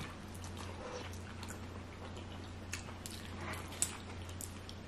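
Faint chewing of spaghetti and greens, with a few small clicks of forks against plates, over a low steady hum.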